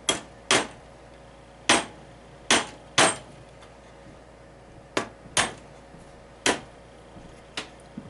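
Hammer tapping wire ball guides into drilled holes in a wooden pinball playfield, about nine sharp knocks at uneven spacing, each with a brief ring.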